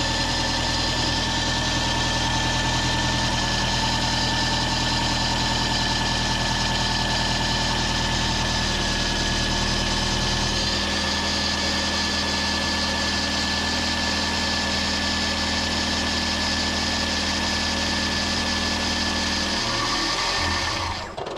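Toyota Aqua NHP10 hybrid's 1.5-litre four-cylinder engine (1NZ-FXE) running steadily, then shutting off just before the end.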